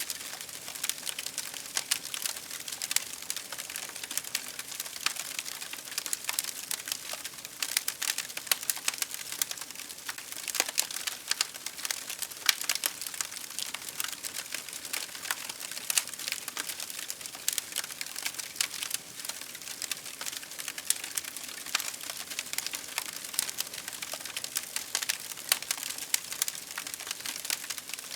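Wood fire crackling and popping steadily: a dense, irregular run of sharp snaps over a soft hiss, with no let-up.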